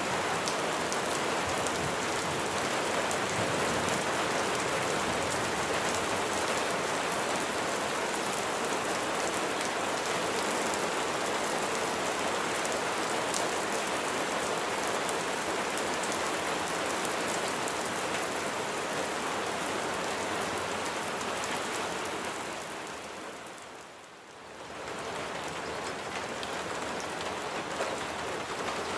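Steady rain falling and pattering on surfaces, an even hiss. About three-quarters of the way through it fades down sharply for a moment, then comes straight back.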